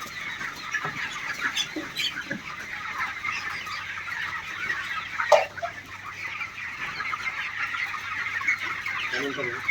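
A flock of chickens clucking and chattering continuously, many birds at once, with one louder call falling in pitch about five seconds in.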